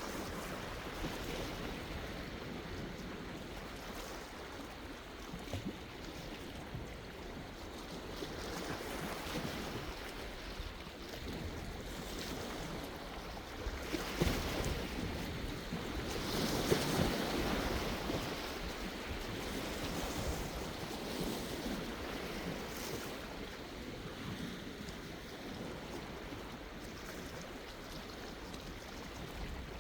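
Sea waves washing in and out, a continuous surf wash that swells to a louder break about halfway through.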